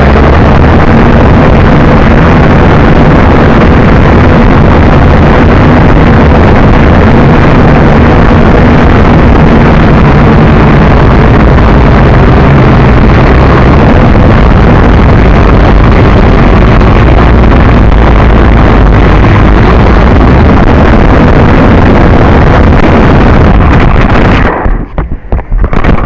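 JJRC H12C mini quadcopter in flight, heard through its own onboard camera microphone: loud, steady wind buffeting the microphone over the hum of the motors and propellers. Near the end the sound cuts in and out as the quadcopter comes down in a hard landing.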